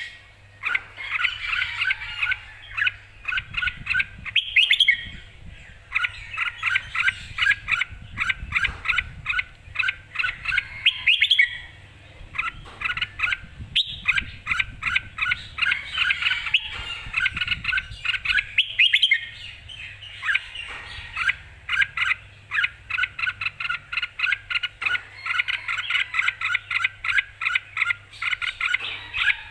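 Red-whiskered bulbul singing: a lively, continuous run of quick chirping phrases, broken only by brief pauses.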